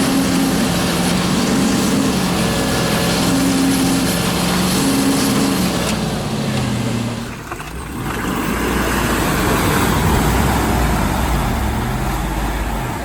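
An off-road vehicle's engine running and revving unevenly, its pitch rising and falling, for about seven seconds. After a short dip it gives way to a steady rushing noise with a low rumble.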